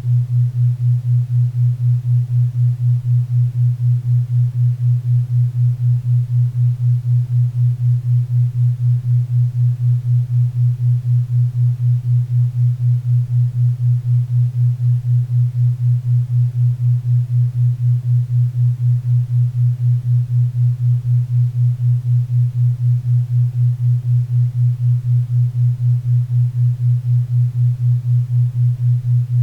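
Synthesized 4 Hz theta-wave beat: a low, steady tone pulsing evenly about four times a second, over a faint bed of pink and brown noise.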